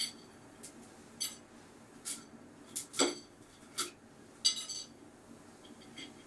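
Metal kitchen utensils clinking and tapping against a pot of frying oil: a series of sharp, ringing clinks roughly one a second.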